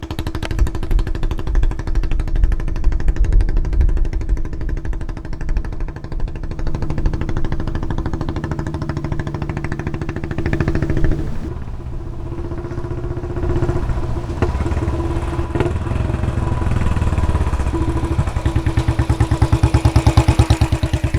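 Royal Enfield Bullet 500's single-cylinder engine running through a Punjab long bottle silencer, its exhaust note shifting as the throttle changes, with a brief drop about halfway through. Near the end it settles into loud, evenly spaced exhaust thumps.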